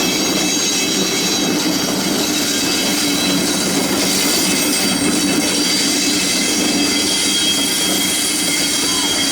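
A train running on the track: a steady rumble with thin, steady high tones over it.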